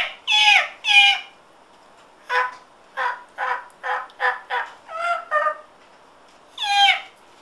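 A person imitating a bird call. There are three loud cries that fall in pitch, then a quick run of about eight short, clipped notes, then one more falling cry near the end.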